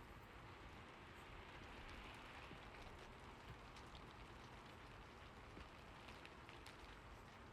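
Faint, steady rain, an even hiss with scattered light ticks, more of them in the second half.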